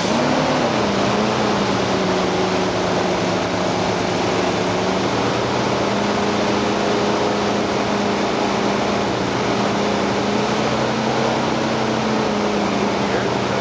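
1949 Buick Super's straight-eight engine, freshly rebuilt, idling steadily just after its first start, its speed rising briefly and settling in the first second or so. The owner says it runs rough.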